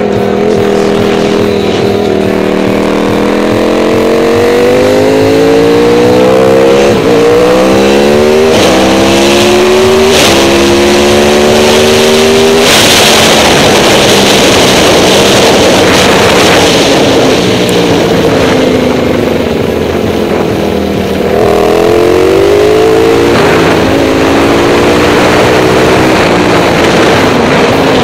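Supermoto motorcycle engine accelerating hard through the gears. Its pitch climbs and drops back at each upshift, several times in quick succession. After a steadier stretch it climbs through the gears again near the end.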